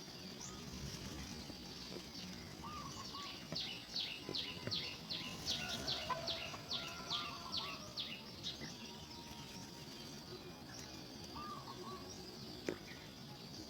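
Wild birds calling: a songbird gives a run of about a dozen sharp, high, down-slurred notes at roughly three a second, with a few short softer calls before and after, over a steady high hum.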